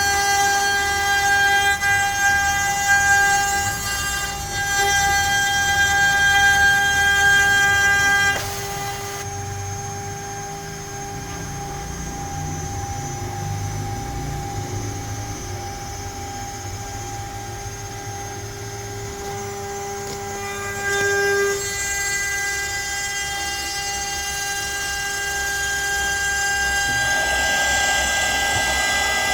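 CNC router spindle whining steadily while a bit mills letters into pine, the cutting noise loud for the first eight seconds, dropping away suddenly, then building again near the end.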